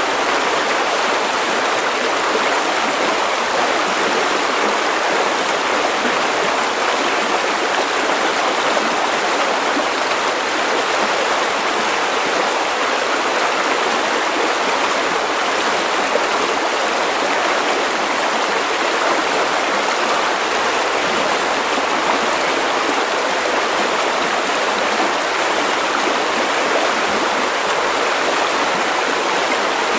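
River water running steadily over stones, a constant rushing babble with no breaks.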